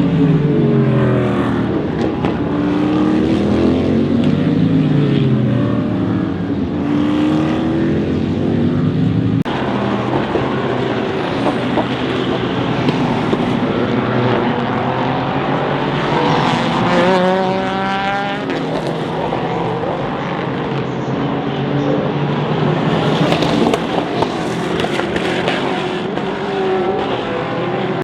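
Race cars passing at speed, several engines in turn, each dropping in pitch as it goes by. About two-thirds of the way through, one engine revs up through its gears.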